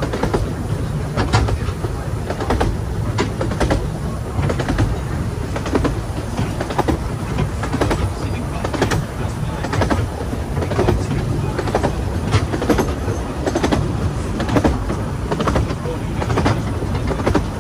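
15-inch gauge railway carriage running along the line behind a steam locomotive: a steady low rumble from the wheels, broken by frequent sharp clicks as they pass over the rail joints.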